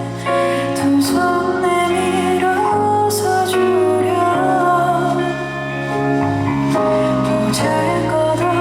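Live band music with a woman singing: a slow, tender song with held notes over a steady bass.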